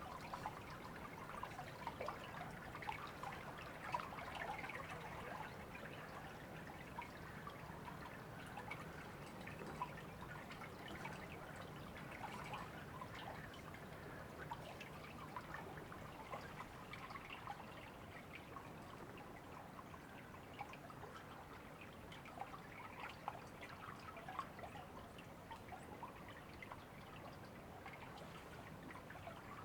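River water trickling and babbling steadily and quietly, a dense run of small splashes with no pauses.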